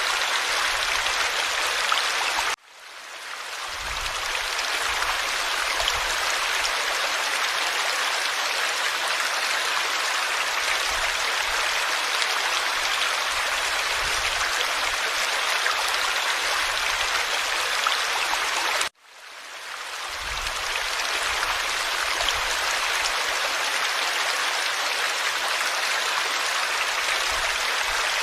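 Forest stream water flowing in a steady rush. The sound cuts out abruptly twice, about two and a half seconds in and again about nineteen seconds in, and fades back up each time over about a second.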